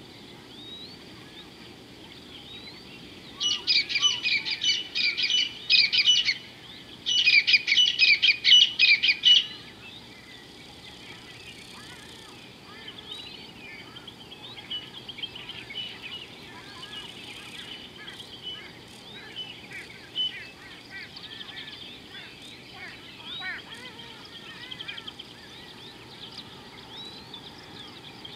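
Wild birds calling: one bird gives two loud bursts of rapidly repeated sharp, high notes, each about two to three seconds long, a few seconds in. Many fainter chirps and whistles from other birds follow over a steady high background chorus.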